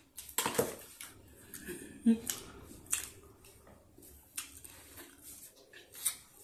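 Close-miked eating sounds of a chewy sour candy strip being stretched, bitten and chewed: sticky mouth clicks and smacks. A short hum of voice comes about two seconds in and is the loudest moment.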